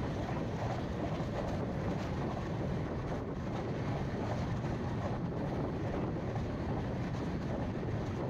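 Express passenger train running at steady speed, heard from on board: an even, unbroken rumble and rush of noise with no distinct wheel clicks.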